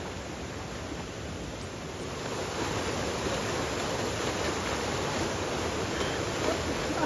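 Steady rush of flowing river water, growing slightly louder about two seconds in.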